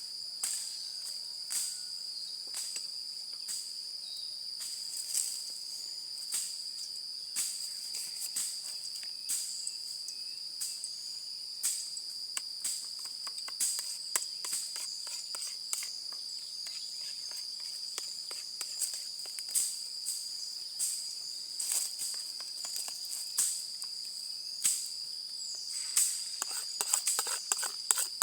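Crickets trilling steadily and high-pitched over a crackling campfire, which gives off irregular sharp pops. The pops come in a quick, dense run near the end.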